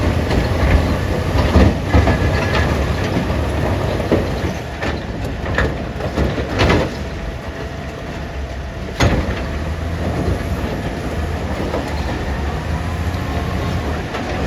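Heavy diesel machinery running steadily with a deep hum, broken by several sharp knocks and clanks, the loudest about nine seconds in.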